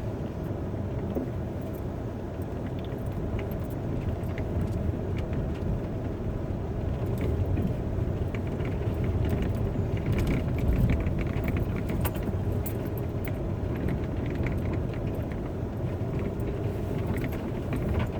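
Car driving hard up a snow-covered hill, its engine pulling under load in a steady low drone that swells a little around the middle, with scattered light rattles.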